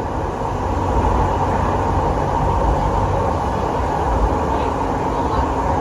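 Muni Metro light rail train running, a steady rumble that grows a little louder about a second in.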